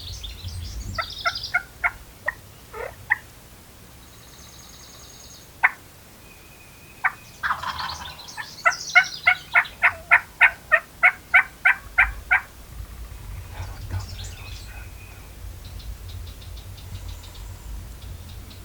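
Turkey calling: a few scattered yelps, then a rattling call about seven seconds in that runs into a long even series of about fifteen loud yelps, roughly four a second. Small songbirds chirp faintly high above.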